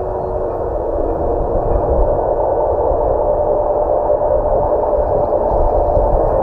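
A train running past, a steady rushing noise with a hum that rises in pitch during the first few seconds, over a low rumble.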